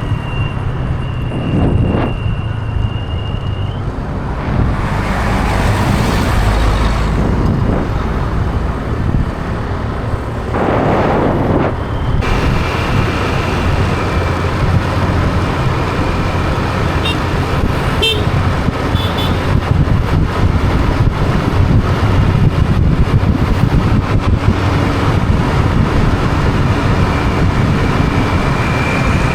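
Motorbike riding along a road: a steady engine and road rumble, with a thin high steady tone over the first few seconds and fainter ones later.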